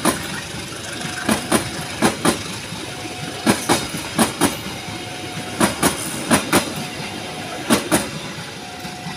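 Train cars rolling past, their wheels clacking over a rail joint in quick pairs of knocks, one pair per bogie, over a steady rumble of the wheels on the rail.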